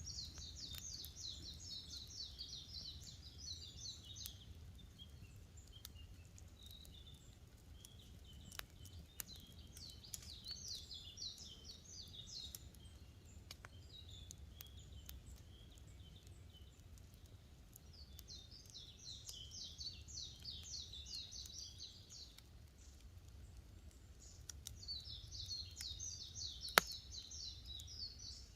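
A small songbird singing high, rapid-note phrases of a few seconds each, about four times, over a campfire's faint crackling and low rumble, with one sharper pop near the end.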